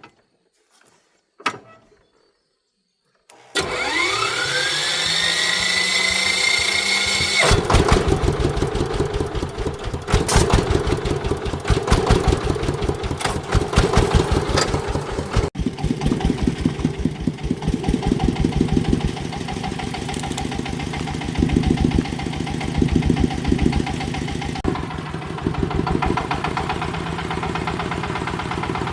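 Vehicle engine being started: a few faint clicks, then the starter whining and rising in pitch for about four seconds before the engine catches about seven seconds in. It runs unevenly with a few revs, then settles to a steady idle.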